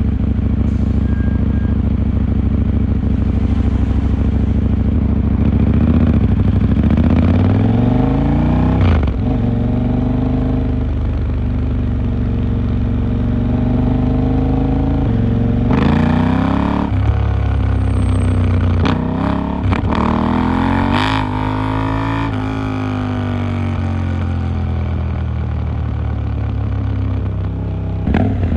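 KTM 890 Duke R's parallel-twin engine on a ride through town: running steadily, then revving up through the gears with quick gear changes about a third of the way in and again past halfway. Later the engine pitch swings up and down and then falls away as the bike slows.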